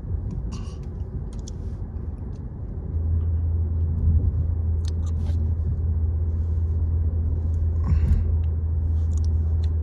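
Low cabin rumble of road and engine noise inside a moving Toyota Camry, which grows louder and deeper about three seconds in and then holds steady.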